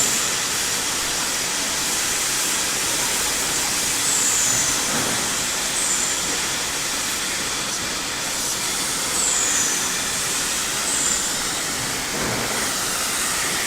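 Gas brazing torch flame hissing steadily, the kind used to braze aluminium with 4047 AlSi12 filler wire, with short high squeaks every couple of seconds.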